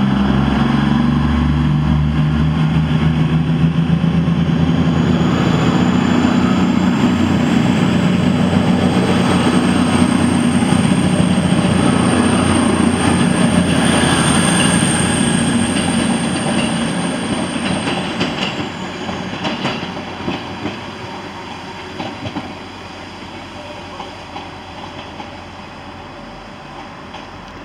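Avanti West Coast diesel passenger train pulling away along the platform, its engines running under power with a high whine that rises and holds, and wheels clacking over the rail joints. The sound fades away over the last third as the train leaves.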